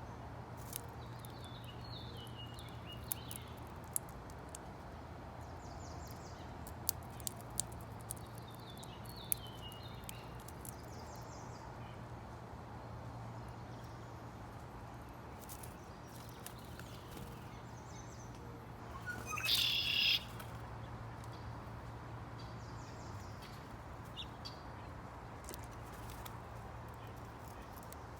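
Songbirds calling: short falling chirp phrases twice early on, scattered sharp clicks, and one louder, harsher call lasting about a second roughly two-thirds of the way through, over a steady low hum.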